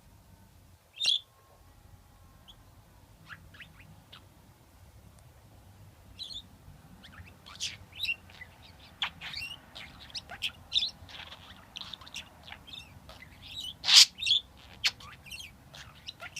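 Pet budgerigar chirping: one loud chirp about a second in, then a busy run of short, high chirps from about six seconds on, the loudest near the end.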